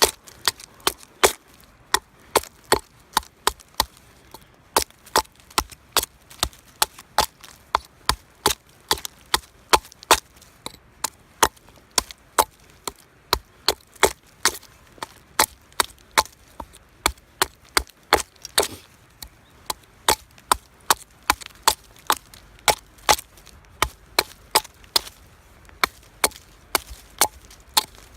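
Steel fire striker (hizuchi) struck again and again against a flint, making sharp clicks about two a second, to throw sparks onto char cloth.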